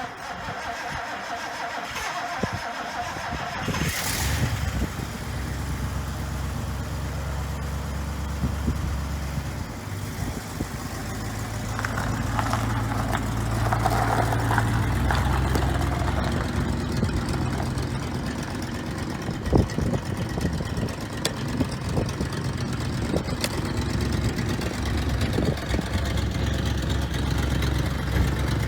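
A vehicle engine starts about four seconds in and then runs steadily at a low idle, with small rises in engine speed.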